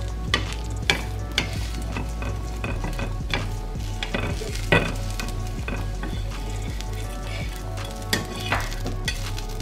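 A moong-dal and quinoa chila sizzling on a hot flat tawa, with a flat spatula scraping and pressing at it in several short, sharp strokes at uneven intervals.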